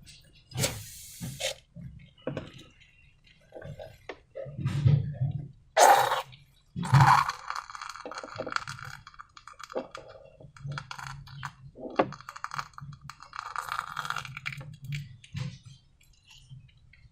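Slime being squished and handled with balloons: scattered clicks and sticky crackles, with a louder sharp crackle about six seconds in.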